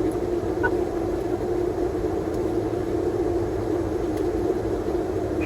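Steady drone of an airliner's flight deck in the climb: engine and airflow noise at an even level with a low rumble.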